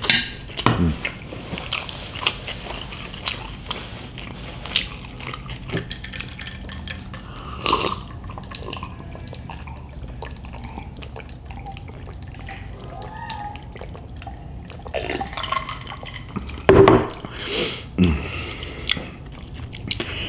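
Close-miked eating of fried pork and rice: wet chewing and mouth smacks with many small sharp clicks, and a few short hums.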